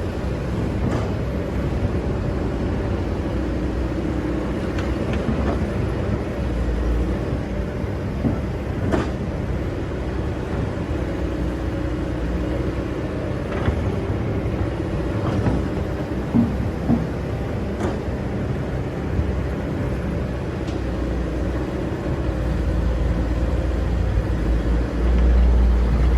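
Excavator's diesel engine running steadily under load while it digs sand, with a few short knocks scattered through. The low rumble swells near the end.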